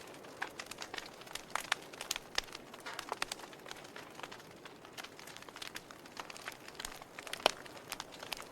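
Wood fire burning in a fireplace: logs crackling with irregular sharp pops over a soft hiss of flame, one louder pop near the end.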